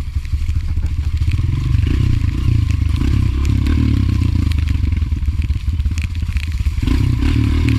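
Honda single-cylinder four-stroke trail bike engine running while riding over rough, muddy ground, with clatter and scraping from the bike. The engine gets louder about two seconds in and again near the end.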